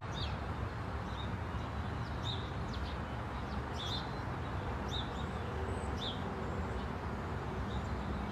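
A bird chirping: short, high notes repeated about once a second over a steady outdoor background hiss.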